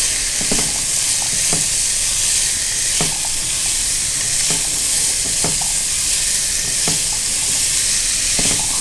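Diced radish and soaked moong dal sizzling in a hot pan as they are sautéed, with steady frying hiss. A spatula stirs and scrapes the pan about once a second.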